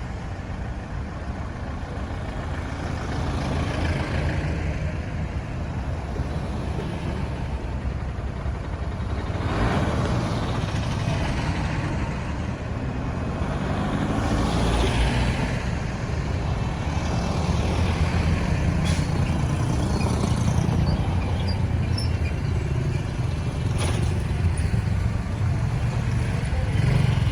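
Road traffic: engines of passing trucks, cars and motorbikes with tyre noise, several vehicles swelling past in turn.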